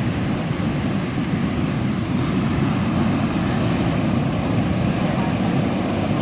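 Steady, loud rumble of Atlantic surf breaking on the shore, mixed with wind buffeting the microphone.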